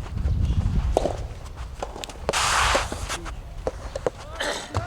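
Footsteps and scattered sharp knocks on a soft tennis court, irregularly spaced, with a brief half-second hiss about two and a half seconds in.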